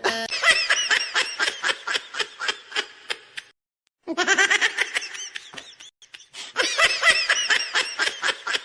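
High-pitched laughter in three bouts of rapid ha-ha pulses, each fading away, with short pauses between them.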